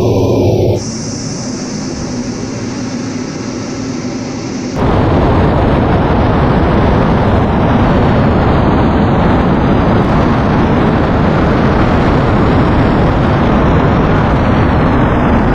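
Loud military jet aircraft noise with explosion-like rumble, in footage cut together: the sound changes abruptly about a second in and again near five seconds, after which a dense, steady noise continues.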